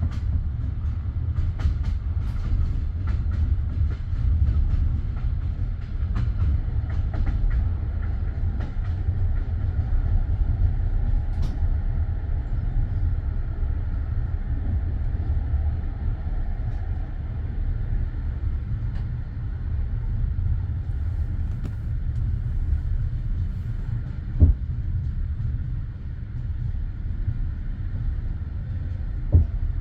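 Passenger train carriage heard from inside: a steady low rumble with scattered light clicks in the first dozen seconds, then two sharp knocks about five seconds apart near the end.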